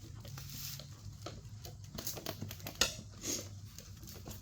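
Tire spoons levering a dirt bike tire's bead off the rim: scattered scrapes and clicks of metal on rim and rubber, with one sharper click a little under three seconds in.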